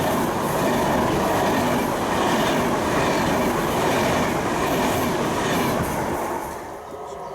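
Passenger train passing along the track, a dense noise of wheels running on the rails that drops away about six and a half seconds in as the train clears.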